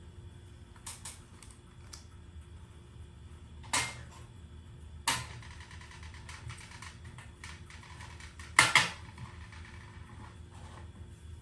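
Scattered mechanical knocks and clicks from hardware being handled during a garage door installation, over a steady low hum. The loudest knocks come about four, five and nine seconds in.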